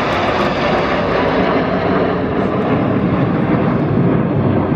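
Jet noise from a formation of BAE Hawk T1 jets flying past, loud and steady, shifting lower in pitch as the aircraft go by.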